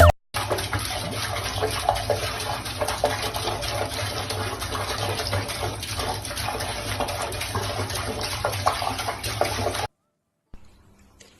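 Steady rush of running water, cutting off suddenly near the end.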